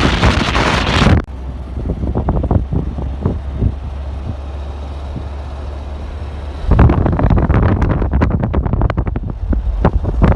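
Wind buffeting the microphone in loud, irregular gusts. It eases after about a second to a steady low rumble, then gusts hard again about two-thirds of the way through.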